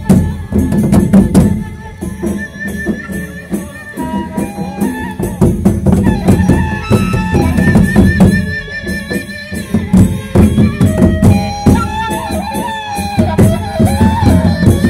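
A Sasak gendang beleq ensemble playing: dense drumming under jingling cymbals, with a wavering melodic line above.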